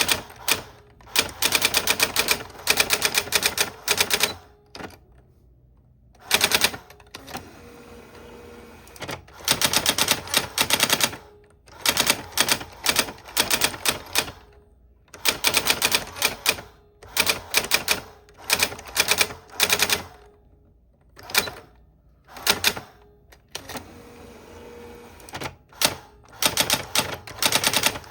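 Old typewriter being typed on: runs of rapid key strikes clattering, broken by short pauses.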